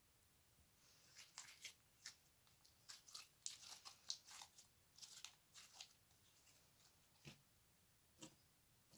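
Slime being squeezed and poked by hand, giving a quick run of crisp crackles and pops that thins to a few single clicks near the end.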